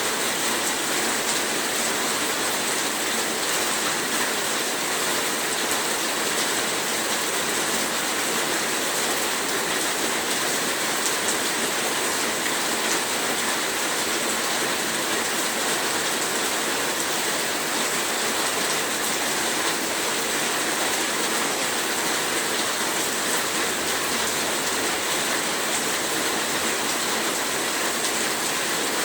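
Heavy rain falling steadily, a dense even hiss of drops with no pauses or changes.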